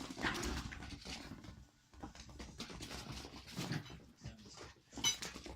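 Toy poodle puppies playing, with scuffling, many small clicks and little dog sounds. The loudest is a short high-pitched squeal about five seconds in.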